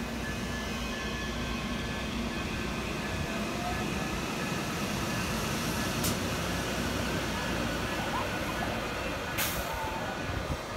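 Silverliner V electric commuter train running along the platform and pulling away: a steady rumble of wheels on rail, with two short sharp clicks, about halfway through and near the end.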